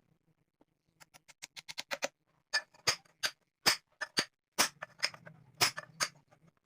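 Sharp clicks and taps: a quick run of light ticks about a second in, then louder single knocks every half second or so, over a faint low hum.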